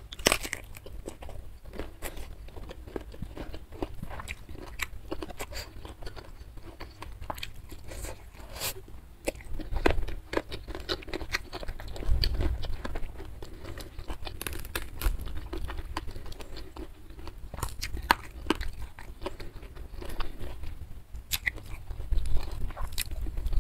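Close-miked chewing and crunching of a mouthful of rice and side dishes, with many short wet clicks and crunches. Near the end, fingers pull apart a fried salted fish.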